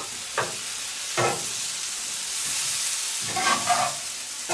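Stir-fry of noodles, shrimp and vegetables sizzling steadily on a hot black grill pan. A metal turner scrapes and tosses the food against the pan a few times.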